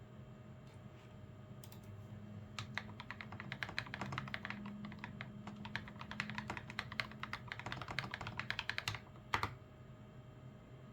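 Typing on a GamaKay LK67 mechanical keyboard fitted with lubed Gateron Milky Yellow Pro linear switches. It starts a couple of seconds in as a quick, steady run of soft keystrokes, and a single heavier key strike comes near the end.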